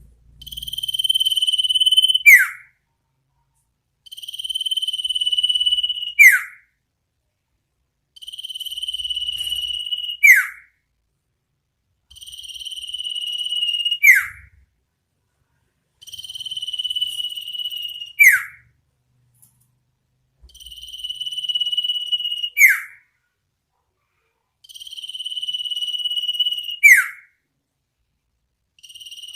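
Common iora (sirtu) giving its 'ngetir nyipow' call over and over. Each call is a held, slightly trilled whistle lasting about two seconds, ending in a quick, loud downward-sweeping note. It repeats about every four seconds.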